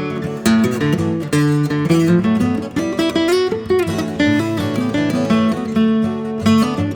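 Acoustic guitar playing an instrumental break in a newgrass song: strummed chords under a moving picked melody, with no singing.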